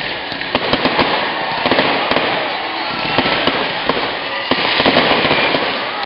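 Fireworks crackling and popping: a dense run of sharp cracks over a steady hiss, with several louder pops through it, stopping abruptly at the end.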